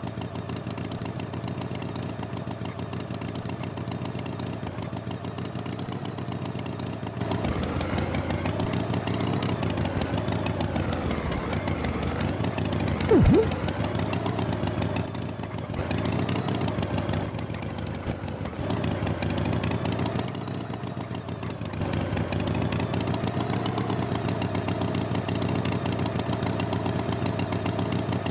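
Tractor engine running steadily, getting louder and wavering in pitch from about seven seconds in, with one short loud burst near the middle.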